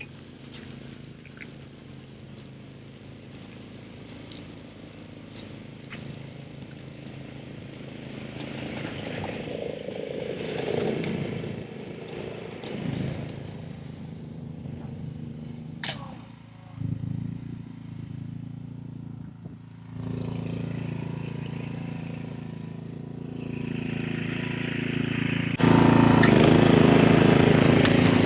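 Ariens Professional 32 snowblower engine running steadily while clearing snow; it gets suddenly louder about 25 seconds in.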